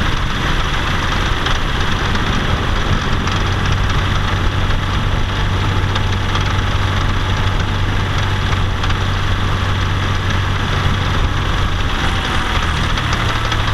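Car engine running steadily under load while driving uphill, with an even hiss of road and wind noise: a check of the uphill abnormal noise, which the owner finds slightly improved after an ECU relearn.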